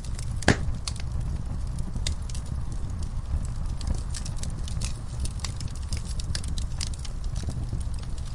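Wood fire crackling in a fireplace, with frequent small pops over a steady low rumble. One sharp, louder pop comes about half a second in.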